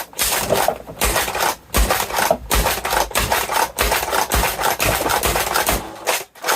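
Rapid, irregular plastic clicks and clacks from a modified Nerf Longshot blaster being reloaded and worked by hand.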